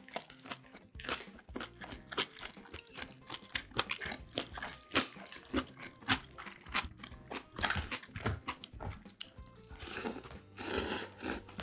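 Close-miked eating: a mouthful of kimbap chewed with many small crunches and wet clicks, then near the end a longer slurp as soft spinach leaves from spinach doenjang soup are drawn into the mouth off chopsticks.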